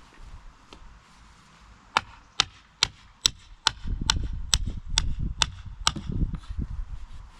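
A steady series of about ten sharp knocks, a little over two a second, like a tool striking repeatedly, with low rumbling under the later strikes.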